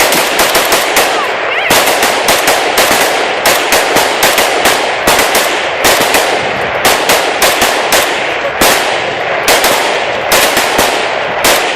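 Several guns firing at once in a rapid, overlapping volley, a few shots a second without a break.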